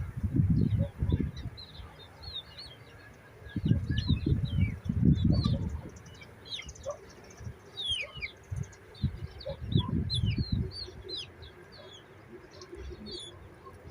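Birds chirping many short, quick notes throughout, with three louder bursts of low rumbling noise, each one to two seconds long.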